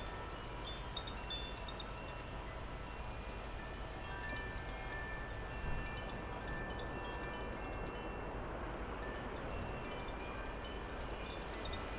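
Wind chimes ringing in the breeze, with overlapping high tones that sustain for several seconds, over a low steady rumble of wind on the microphone.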